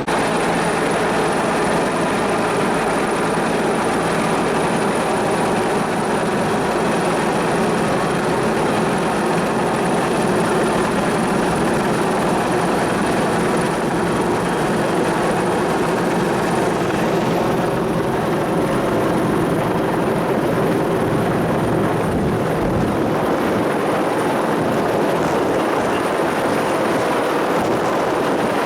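Bell 412 twin-turbine helicopter running steadily: dense rotor and engine noise with a thin, high, steady turbine whine over it. About two-thirds of the way through the sound thins at the top, and a few seconds later the deep rumble falls away.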